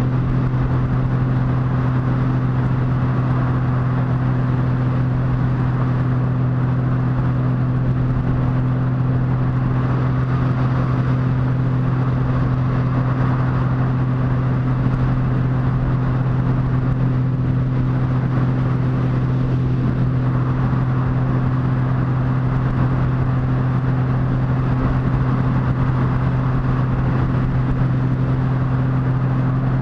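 Motorcycle engine running at a steady cruising speed, holding one even note throughout, with wind and road noise over it.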